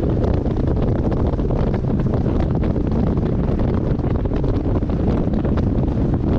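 Heavy wind noise buffeting the microphone of a moving car, a steady low rumbling rush that drowns out the engine.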